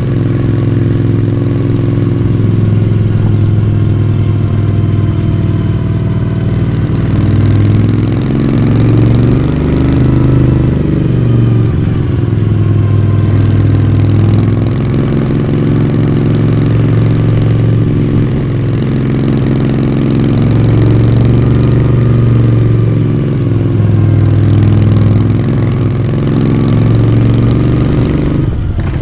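Moto Guzzi V35's air-cooled V-twin engine and exhaust running under way. The pitch rises and falls gently with the throttle, with a brief dip near the end.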